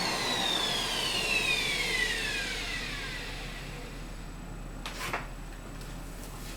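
Small electric air pump's motor whine falling steadily in pitch as it spins down after being switched off, followed by a couple of short clicks.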